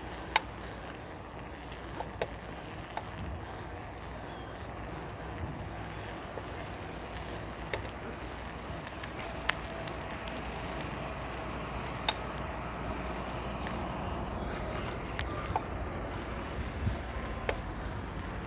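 Steady rolling and wind noise from a bicycle in motion, broken by a few sharp clicks or knocks, the loudest near the start.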